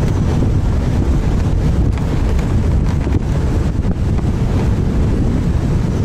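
Strong wind buffeting the microphone on a moving motorboat, with the outboard motor running and waves slapping the hull underneath.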